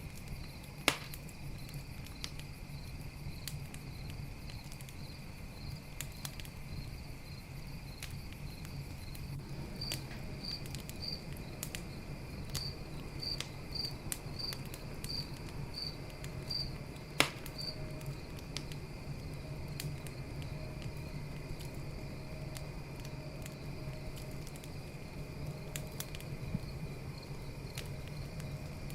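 Campfire crackling with scattered sharp pops, two loud ones about a second in and just past halfway, over a steady chorus of crickets and night insects. A run of evenly spaced chirps, about one and a half a second, stands out in the middle.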